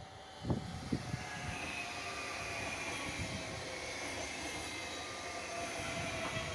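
Red double-deck regional push-pull train, control car leading, passing close by on electrified track: a steady rolling rush with a few faint steady tones over it. Two brief low thumps sound about half a second and a second in.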